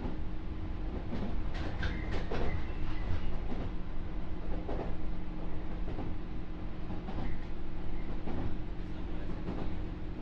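JR 201-series electric train standing at a station, heard from inside the passenger car: its onboard equipment gives a steady low hum. A few light knocks and clatters, most of them about two seconds in.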